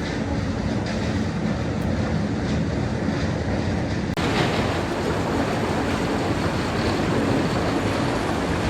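Concrete mixer running steadily, its motor and turning drum making a loud, continuous rumble.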